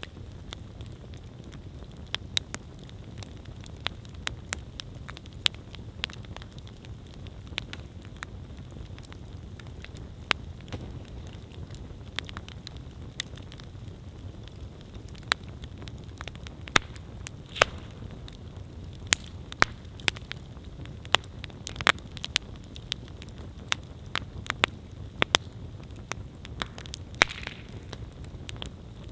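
Wood campfire burning, with frequent sharp, irregular crackles and pops over a steady low rush of the flames; the pops come more often in the second half.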